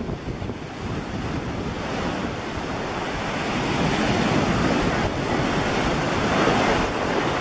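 A steady rushing noise like wind or surf, with no distinct tones or knocks, growing louder toward the end.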